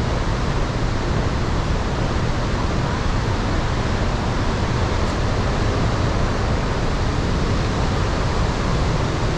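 Iguazu Falls roaring: a loud, steady rush of falling water.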